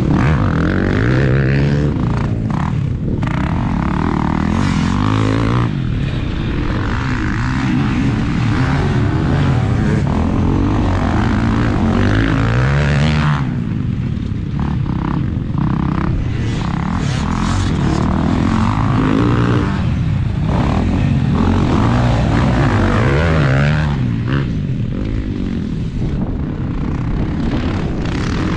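Dirt bike engine revving up and falling off again and again, with a heavy low rumble of wind on the microphone.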